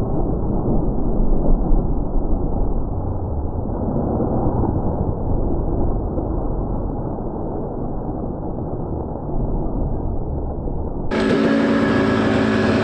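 Muffled, low-pitched dirt bike engine noise, the sound of a slowed-down replay. About eleven seconds in it cuts abruptly to full-range sound with a steady engine note.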